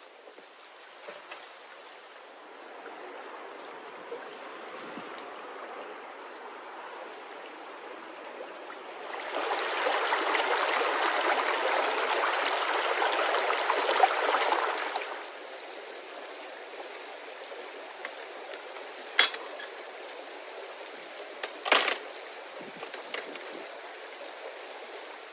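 Steady rushing hiss of water that swells louder for about six seconds in the middle, with two sharp clicks near the end.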